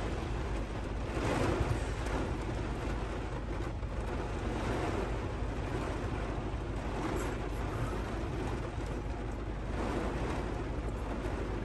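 Heavy thunderstorm rain pouring down on a vehicle, heard from inside the cab as a steady hiss.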